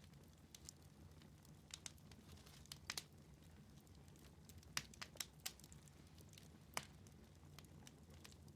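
Wood fire burning in a fireplace, crackling quietly: a dozen or so scattered sharp pops, the loudest around the middle, over a faint steady low rumble.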